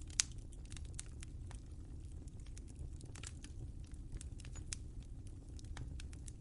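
Wood fire crackling in a fireplace: irregular sharp pops and snaps, several a second, the loudest about a quarter second in, over a steady low rumble of the flames.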